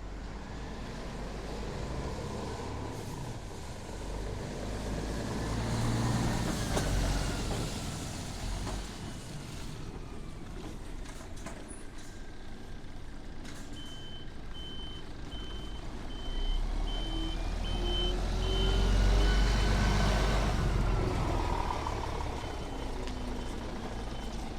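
Scania S450 tractor unit's engine running and twice rising and falling in level, with a faint whine that glides up and down. About halfway through, a reversing alarm starts beeping, about one and a half beeps a second.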